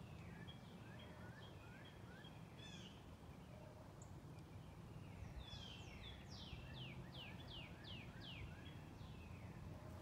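Faint songbird calls: a few short falling chirps in the first seconds, then from about halfway in a song of about eight quick falling whistles in a row.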